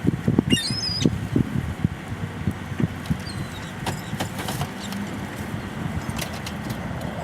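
Seagulls give a short, high squealing call about half a second in and a fainter one a few seconds later. Under them runs a steady low rumble with irregular low thumps, busiest in the first couple of seconds.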